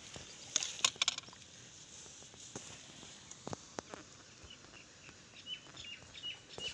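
Outdoor ambience with a cluster of sharp clicks about half a second in, then a small bird chirping in short repeated notes near the end.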